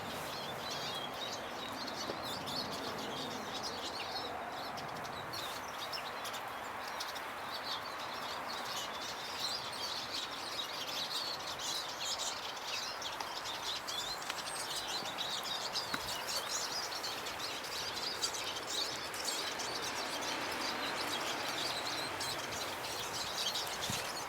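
Small garden songbirds chirping and twittering almost continuously, many short high calls overlapping, over a steady background hiss.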